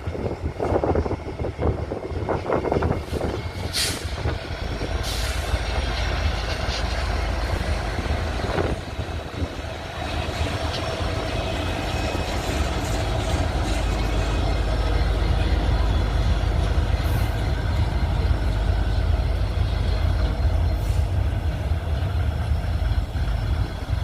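Two Norfolk Southern diesel locomotives hauling a depressed-center flat car as they pass, with a steady low rumble of engines and rolling stock. A brief hiss comes about four seconds in, and faint steady high tones run over the rumble from about ten seconds on.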